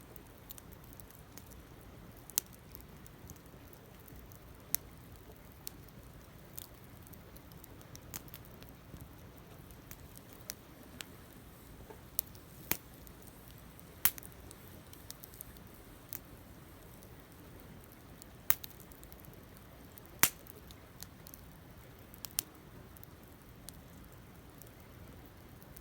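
Wood campfire burning, crackling with irregular sharp pops and snaps over a low steady hiss.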